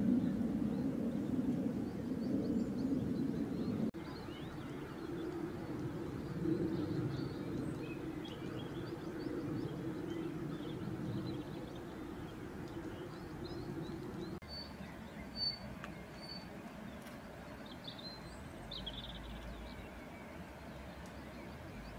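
Small birds chirping faintly and intermittently, with a few clearer calls in the second half, over a low steady rumble that fades about two-thirds of the way through.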